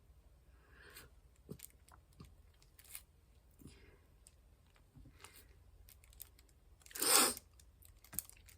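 Resin diamond-painting drills being picked up and pressed onto the canvas: scattered faint clicks and taps, with one louder, brief rustle about seven seconds in.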